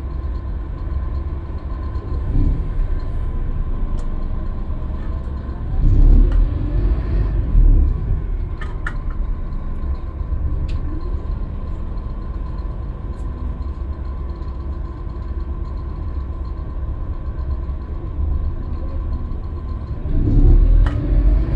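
Scania K320UB bus running with a steady low rumble and a thin, steady high whine over it. It swells louder, with the pitch bending, about six seconds in and again near the end.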